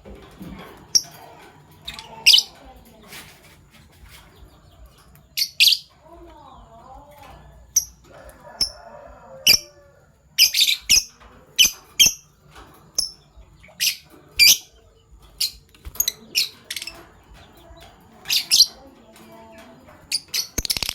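Fischer's lovebirds chirping: sharp, high-pitched single chirps and quick runs of two or three, scattered irregularly.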